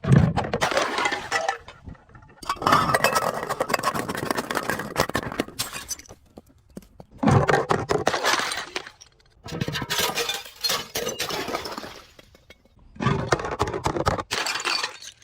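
Glass bottle being crushed and shattering, crunching and clinking in about five separate bouts, each lasting one to three seconds.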